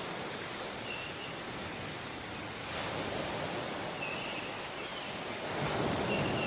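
Waves washing onto a beach: a steady rush of surf that swells about halfway through and again, louder, near the end. A few faint short high chirps sound over it.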